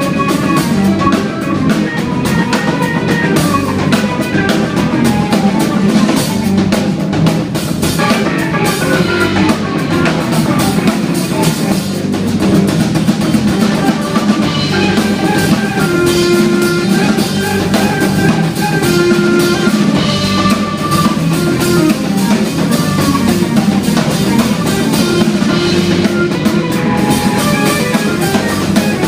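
Instrumental jazz-rock band playing live at full volume: busy drum kit with bass and melodic lead lines over it, playing without a break.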